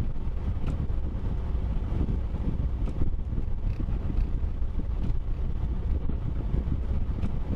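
Steady low rumble of a vehicle driving, mixed with wind noise, with a few faint ticks.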